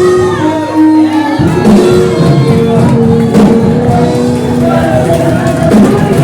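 Loud live church worship music: voices singing and calling out over held keyboard chords. The low bass and drums drop out for about the first second and a half, then come back in.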